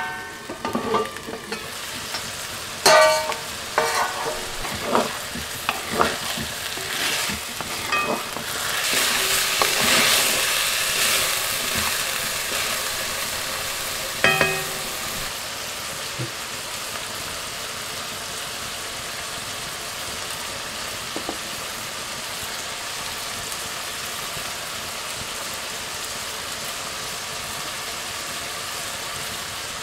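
Mutton and green beans frying in an iron kadai, with a metal utensil clanking and scraping against the pan several times in the first few seconds. The sizzle swells about eight seconds in, then settles into a steady hiss.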